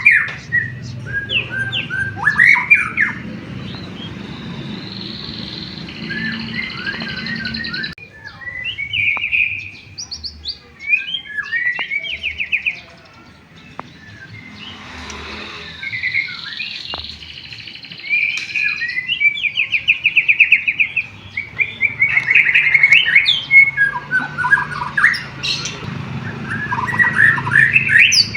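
White-rumped shama singing a long, varied song of whistles, chirps and fast trills, with canary-style phrases worked in. There are short pauses about eight seconds in and again near the middle, and a low steady hum underneath.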